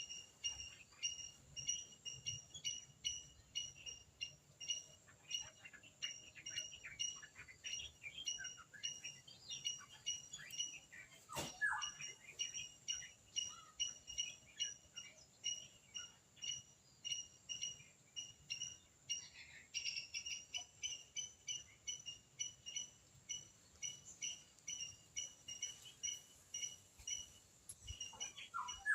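Squirrel chirping: one sharp high chirp repeated evenly about twice a second, with one louder squeak falling in pitch about a dozen seconds in and a few other scattered calls.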